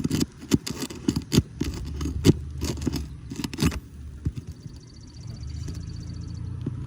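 Rapid metal clicks, knocks and scrapes of hand tools prying at roofing nails under asphalt shingles, lasting a little over half the time. They stop, and a steady low hum sets in, with a fast, fine ticking above it for a couple of seconds.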